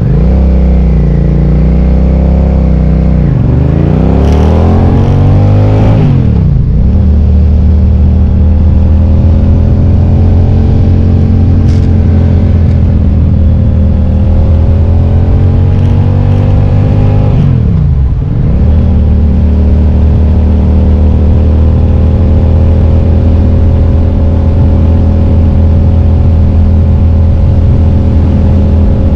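A 2005 Suzuki SV650S's 645 cc 90-degree V-twin under way. It revs up and drops sharply at two upshifts, near 6 seconds and near 18 seconds, then holds a steady cruising note.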